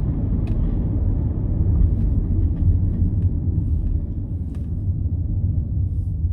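Steady deep road and engine rumble inside a moving car's cabin, with a few faint ticks.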